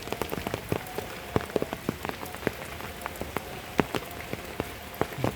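Light rain easing to a drizzle: a steady hiss with many separate drops ticking irregularly, several each second.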